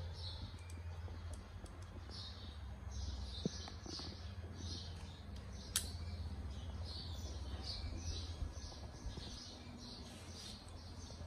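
Small birds chirping repeatedly, several short chirps a second, over a low steady hum, with one sharp click about six seconds in.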